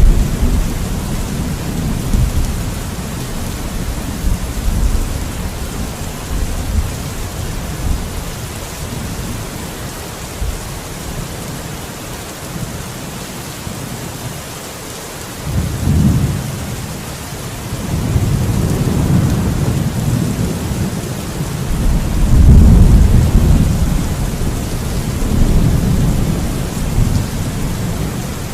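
Steady heavy rain hiss with rolling thunder: a low rumble at the start fades out, a short one comes about halfway through, then a longer, louder roll swells up over the last ten seconds.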